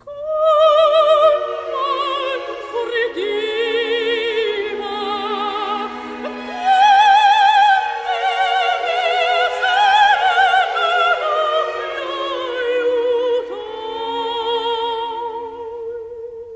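Operatic soprano singing an aria with wide vibrato over orchestral accompaniment, climbing to high sustained notes and closing on a long held note that fades near the end.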